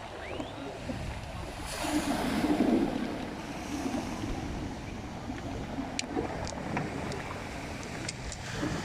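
Ocean surf washing on the shore, swelling to its loudest about two seconds in and then easing back to a steady wash, with some wind on the microphone.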